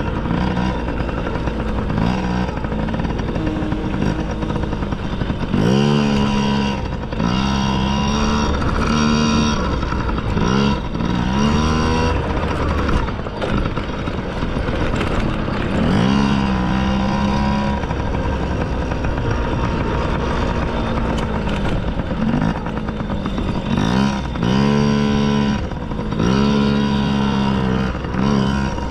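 Small dirt bike engine revving as it is ridden, its pitch climbing again and again as the throttle is opened through the gears, with a steady engine drone in between.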